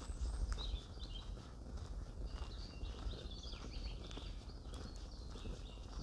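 Small songbirds chirping and twittering again and again, with soft footsteps on a dirt trail and a low rumble underneath.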